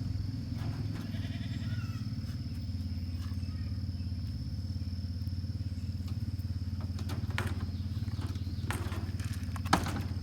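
Young calf bleating a few short times over a steady low hum and a thin, steady high whine, with a sharp click near the end.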